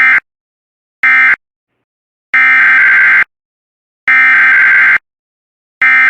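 Emergency Alert System SAME data bursts, a harsh digital screech. First come the last two short end-of-message bursts closing one alert. Then, from about two seconds in, three longer bursts of about a second each: the header that opens the next alert.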